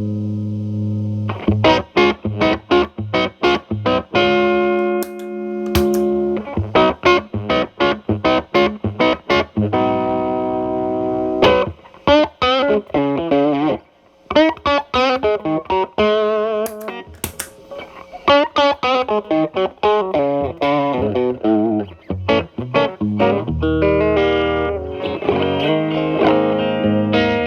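Telecaster played through an MI Audio Crunch Box distortion pedal at gain 9 into a Marshall Valvestate amp's clean channel. It plays a lead of quickly picked single notes, with vibrato on some held notes, and moves into sustained distorted chords near the end.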